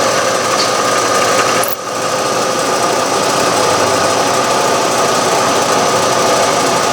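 Milling machine running off a 3-phase converter, its cutter milling a slot in steel band iron: a loud, steady machine noise with a few steady whining tones, dipping briefly about two seconds in.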